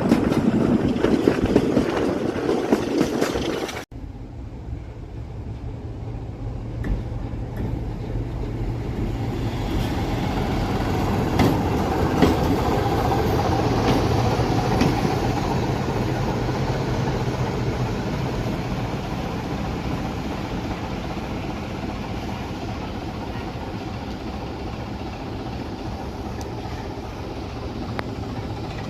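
A train running on the line with a steady low drone. The sound changes abruptly about four seconds in, then builds to a peak around twelve seconds in and slowly fades.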